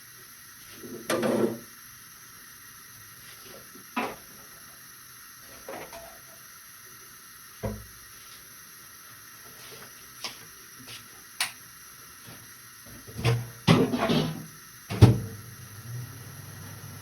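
Intermittent knocks and clatters of kitchen things being handled, such as dishes, utensils or cupboard doors, set down and moved one at a time, with a busier run of clattering near the end.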